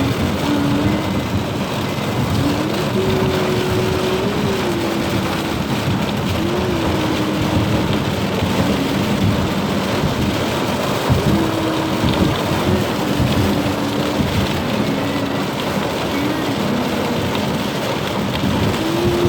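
Very heavy rain pouring down on a car, a loud, steady hiss and patter with no let-up.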